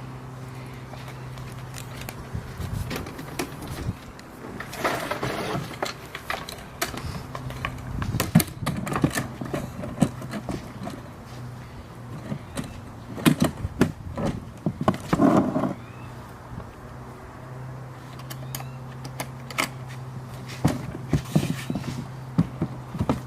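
Knocks, clicks and scraping of a Porta-Bote folding boat being handled and assembled, with a steady low hum behind.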